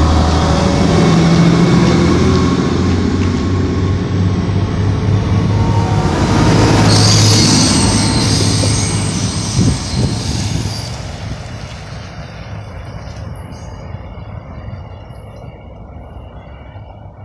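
Two-car Stadler diesel multiple-unit light rail train pulling away past the platform: a low diesel engine drone and wheels rolling on the rails. A high-pitched wheel squeal comes as the cars pass, about six to ten seconds in, and then the sound fades as the train recedes.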